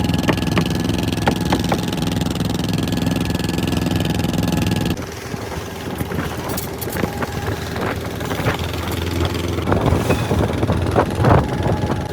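Fishing boat's engine running steadily. About five seconds in, the sound changes abruptly to a quieter engine hum with irregular knocks and clatter.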